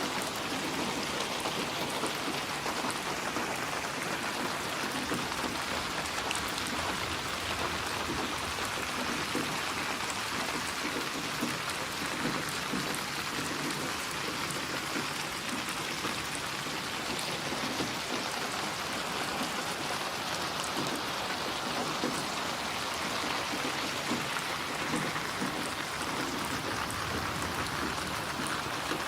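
Steady rain falling, a constant hiss of drops with fine patter, no thunder.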